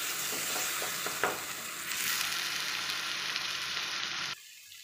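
Onion-tomato masala sizzling in a nonstick kadhai with a splash of added water, a wooden spatula stirring through it. The sizzle is steady, then cuts off suddenly near the end.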